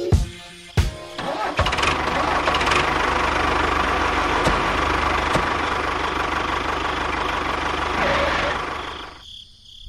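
A small motor starting after a few clicks, running steadily for several seconds, then winding down and stopping near the end.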